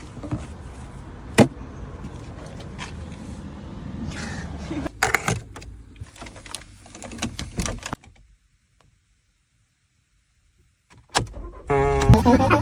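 Car handling sounds: scattered clicks and knocks, such as door and cabin controls, over a low rumble, then a few seconds of dead silence. Near the end a wavering synthesized tone starts up.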